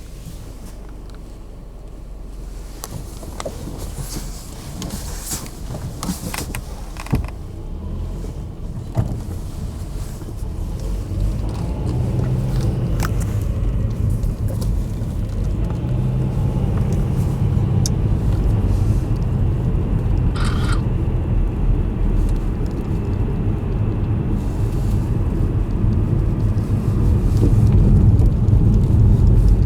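Low vehicle rumble that grows louder from about halfway through, with a few sharp clicks in the first third.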